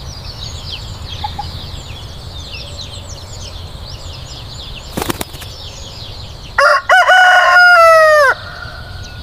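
Rooster crowing once, loud, beginning about six and a half seconds in, its long final note falling in pitch at the end. Before it runs a steady farmyard background of chirping and clucking, broken by a sharp click about five seconds in.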